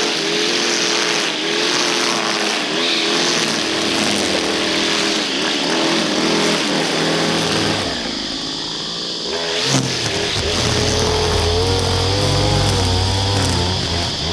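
Small Stihl two-stroke power-tool engine running at high revs, its pitch wavering up and down. About ten seconds in there is a sharp click, and after it a deeper low hum comes in under the engine.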